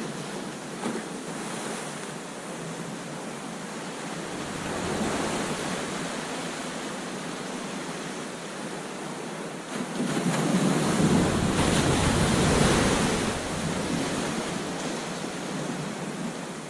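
Ocean surf washing onto a beach in a continuous rush, with a louder, deeper wave breaking about ten seconds in and then easing off. Wind on the microphone adds to the rush.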